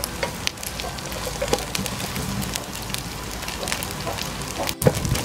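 Frog pieces frying in hot oil with lemongrass, sizzling with many small crackling pops as a spatula stirs them in the pan. The sound drops out for an instant near the end.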